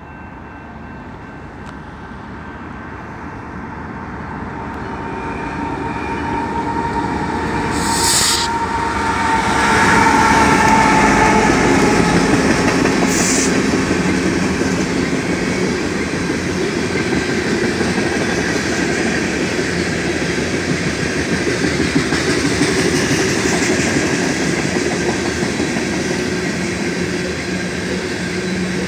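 A fast loaded coal train approaches a grade crossing with its horn sounding, the horn dipping slightly in pitch as the locomotives pass about ten seconds in. Then the loaded coal gondolas roll past at speed in a steady, loud rumble and clatter of wheels on rail.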